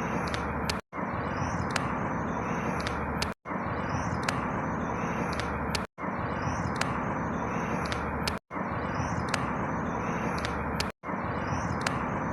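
A steady rushing outdoor ambience with faint high chirps, cut to a loop of about two and a half seconds. It drops out to silence for an instant at each loop point, about five times.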